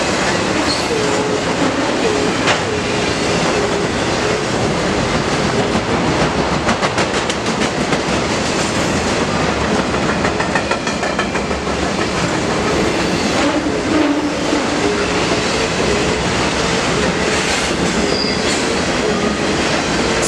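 BNSF intermodal freight train of truck trailers on flatcars passing close by: a loud, steady rumble and rattle of the cars, with wheels clacking over rail joints and a faint wavering wheel squeal at times.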